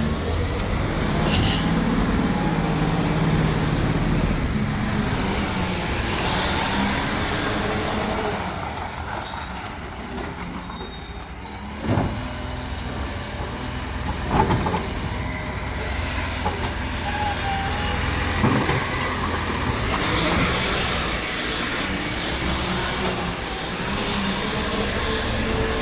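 Rubbish collection truck's diesel engine running, with a few sharp knocks and hisses along the way, and the engine pitch rising near the end as it pulls away.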